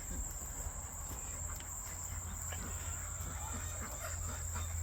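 Steady high-pitched insect chorus with a low rumble on the microphone beneath it.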